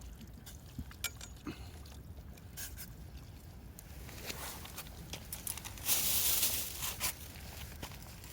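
Scattered small clicks and scrapes of things being handled, with a louder rustle about six seconds in.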